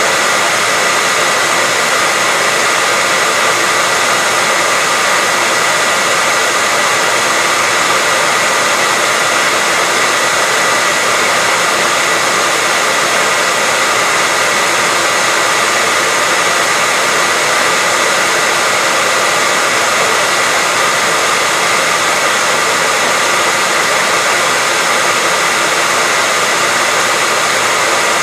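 Hair dryer running steadily as continuous white noise: an even, unchanging hiss with a faint steady whine.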